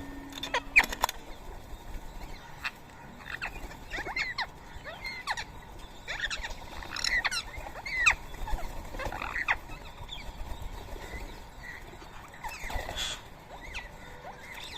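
Birds calling with many short, sharp chirps and squawks, some overlapping, thickest in the middle and thinning out towards the end.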